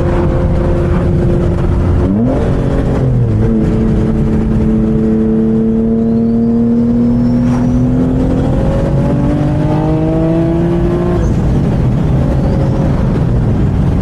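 Twin-turbocharged Infiniti G37 V6 engine under way: a quick blip of revs, then the revs climb slowly and steadily for several seconds before dropping about eleven seconds in and settling.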